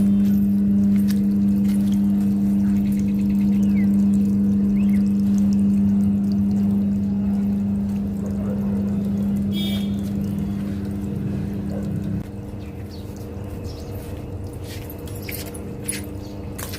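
A steady low mechanical hum over a haze of running or pouring water; the hum drops in level about twelve seconds in, leaving the water and a fainter hum.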